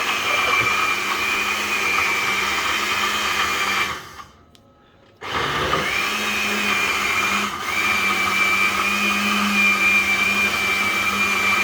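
Electric blender running on a banana shake, a steady motor whine; it stops about four seconds in, is off for about a second, then starts again.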